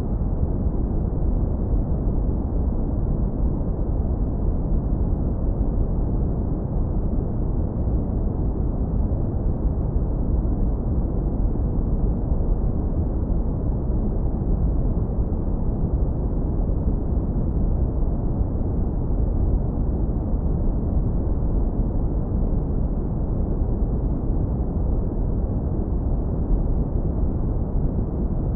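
Synthetic brown noise, heavily low-pass filtered: a steady, deep, smooth rumble with no treble, unchanging throughout.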